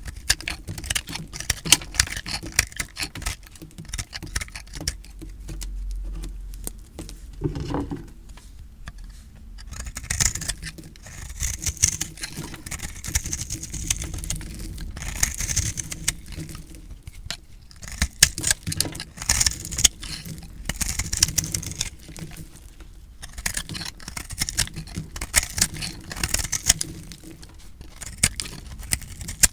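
Knife cutting through crumbly recycled soap: dense crunching and crackling, coming in a string of cutting strokes with short pauses between them.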